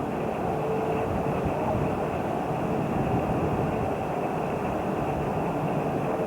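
Train running past at a steady level, a continuous rumble with rail noise and a faint steady hum.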